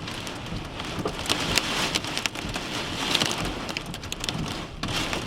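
Hailstones and heavy rain pelting a storm chaser's vehicle: a steady rain hiss with many sharp, irregular stone impacts on the body and glass.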